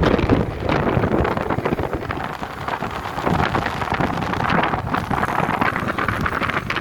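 Wind noise buffeting the microphone: a continuous rush that swells and dips unevenly.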